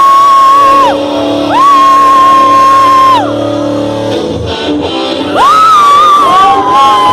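Live worship band playing the intro of a gospel song: a lead melody holds three long notes, each sliding up at its start, over sustained chords.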